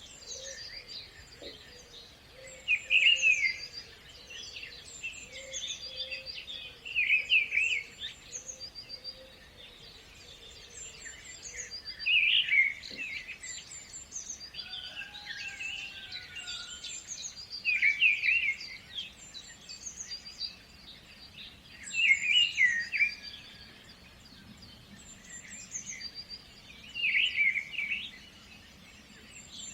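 Birds singing and chirping, with many high notes throughout and a louder song phrase repeating roughly every four to five seconds.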